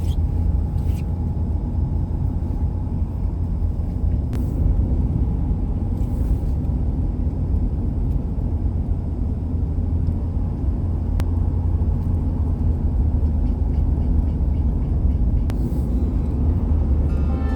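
Steady low rumble of a vehicle on the move, with a few faint clicks; music starts right at the end.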